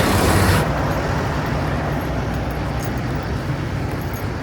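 Semi truck's diesel engine idling steadily with a low hum. A broad hiss over it stops about half a second in.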